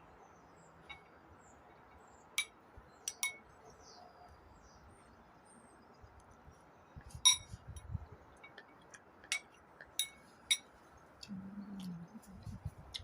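Cutlery clinking against dishes during a meal: a dozen or so sharp, ringing clinks at irregular intervals, the loudest about seven seconds in.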